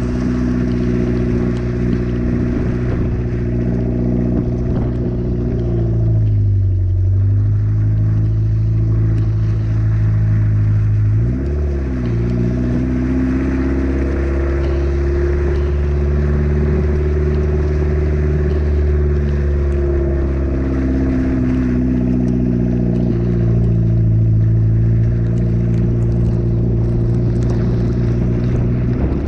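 An autocross car's engine running hard on course. Its pitch drops sharply and climbs back about seven seconds in, and again near twelve seconds, and otherwise holds high with gentler rises and falls.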